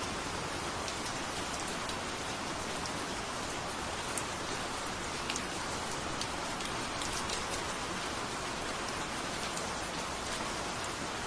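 Steady rain falling on a surface, an even hiss with many fine drop ticks and a couple of slightly louder single drops.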